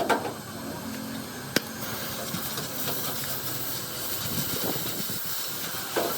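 A steady hiss, with one sharp tap about one and a half seconds in and a short knock near the end.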